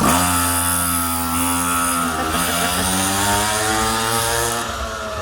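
Motorcycle engine running, its pitch dipping about two seconds in and then rising again.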